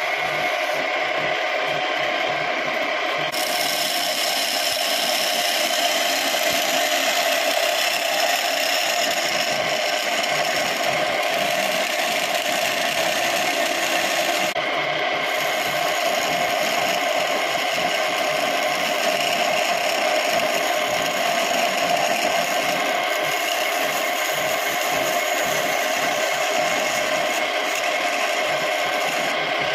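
Homemade wood lathe running while a piece of scrap wood is turned on it, a steady mechanical noise of motor and cutting.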